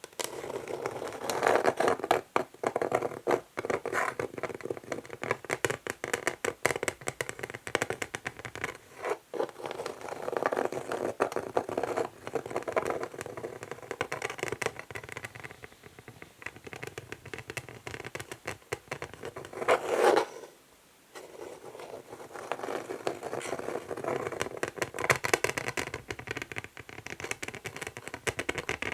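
Natural fingernails scratching across an old wooden chess board in long strokes, one after another, with a short pause about twenty seconds in.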